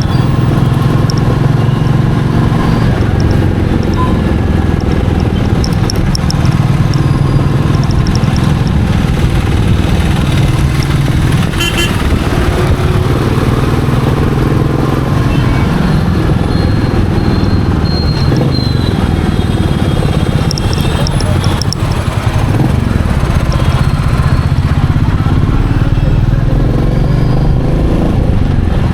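Royal Enfield Meteor 350's single-cylinder engine running on the move, its note rising and falling with the throttle.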